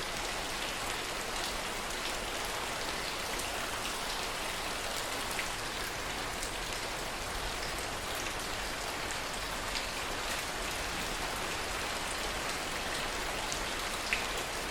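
Steady heavy rain falling, an even hiss with scattered single drops ticking through it, one a little louder near the end.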